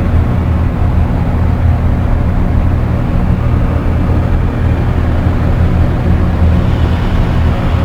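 Dark ambient drone music: a loud, steady low rumble of held deep tones under a dense haze of noise, the hiss above growing a little brighter near the end.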